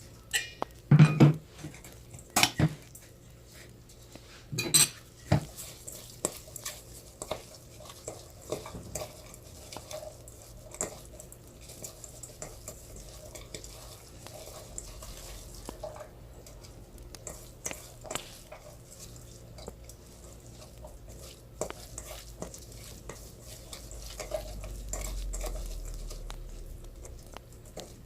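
Utensils clinking and knocking against a bowl as seasoned mung bean sprouts are mixed. A few sharp knocks come in the first five seconds, then lighter scattered clicks, with a low rumble swelling near the end.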